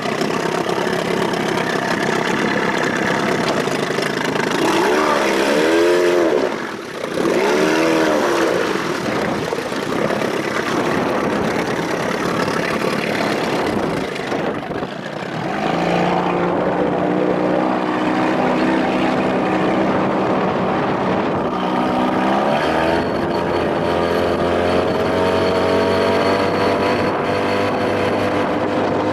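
1993 Evinrude 25 hp two-stroke outboard, built up toward 35 hp, running under way. Its revs surge up and down twice a few seconds in, then it settles and shifts pitch again later: the propeller is fouled with weeds and spinning out.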